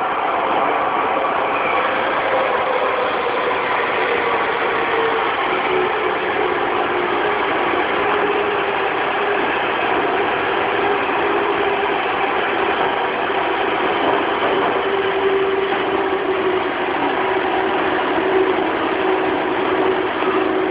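Tokyu 2000 series electric train running at speed, with the steady noise of wheels on rail and a motor whine that slowly falls in pitch; the car uses Hitachi GTO-thyristor VVVF control.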